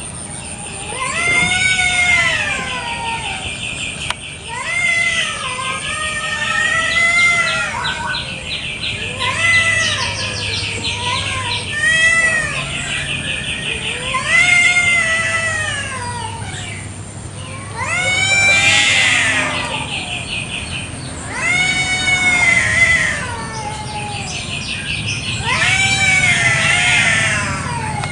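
Village cats caterwauling in a territorial standoff: long, drawn-out yowls that rise and fall in pitch, one every two to three seconds. A rapid pulsing buzz runs beneath for much of the time, with a thin high steady whine throughout.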